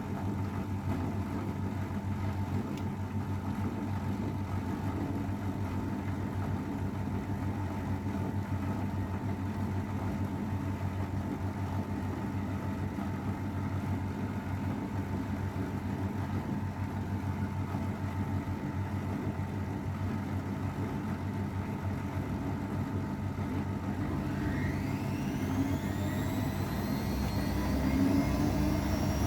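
AEG Öko_Lavamat 693 washing machine running with a steady motor hum; near the end a whine rises in pitch as the motor and drum speed up.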